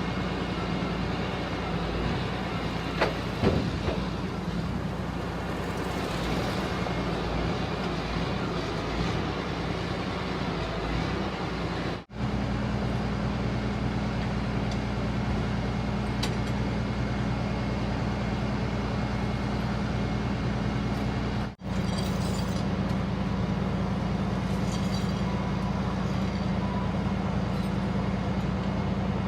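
Steady low hum of an idling vehicle engine, with two brief dropouts about 12 and 21 seconds in and a few faint clicks early on.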